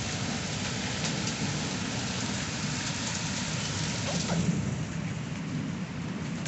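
A storm downpour of rain and hail: a steady hiss with a few sharp ticks. The hiss thins out a little over four seconds in.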